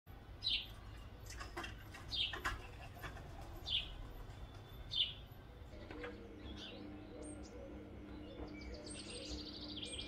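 A small bird chirping outdoors, one short downward chirp every second and a half or so, four times. After that a steady low hum sets in, with faint higher twittering near the end.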